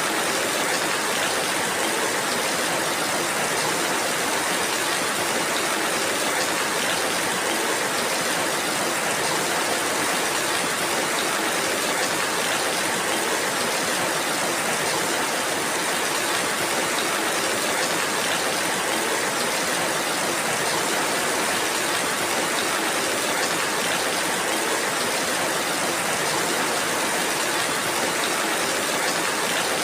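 Steady rainfall: an even, unbroken hiss with no single drops or other events standing out.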